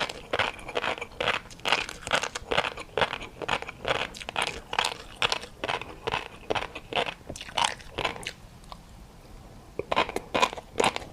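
Close-up chewing of crunchy food: a steady run of crisp crunches about three a second, breaking off for a second or so near the end, then starting again.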